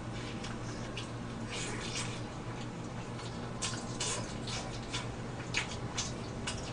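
Close-up chewing of braised pork rib meat: soft, wet mouth clicks and lip smacks at irregular moments, over a steady low hum.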